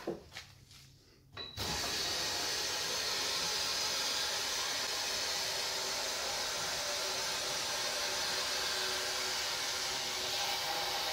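A couple of knocks, then a steady, even hiss that starts about a second and a half in and does not let up.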